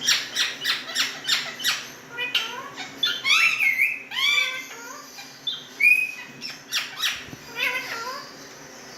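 Indian ringneck parrots (rose-ringed parakeets) squawking: a quick run of harsh screeches in the first two seconds, then gliding, whistle-like calls, and another short run of screeches near the end.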